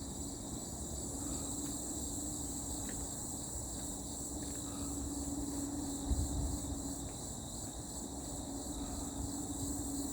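Steady high-pitched chorus of crickets and other autumn insects, with a low hum underneath that fades in and out and a brief bump about six seconds in.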